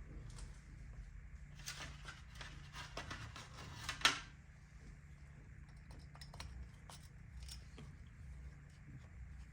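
Hand tools and small engine parts being handled during a motor teardown: a run of clicks and scraping ending in one sharp knock about four seconds in, then scattered light clicks over a low steady hum.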